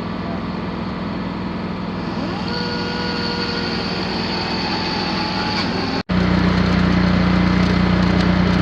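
Electric angle grinder running steadily, grinding paint off the steel and cutting a groove for a weld. About 6 s in the sound cuts abruptly to a louder, steadier hum.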